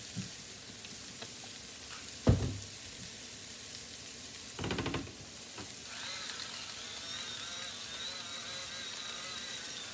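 Onions and garlic sizzling in a frying pan on the stove. A sharp knock of cookware comes about two seconds in, and a short rattle comes near the middle. A faint steady high tone joins about six seconds in.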